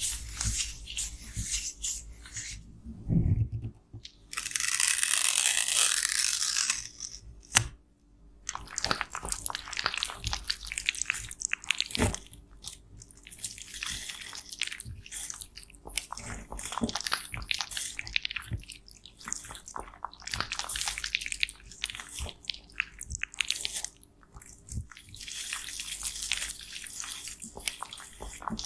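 Cosmetics such as pressed powder and blush being crushed and scraped close to the microphone: a continuous run of crumbly crunches, scrapes and sharp clicks. There is a louder steady hiss about four seconds in that lasts a little over two seconds.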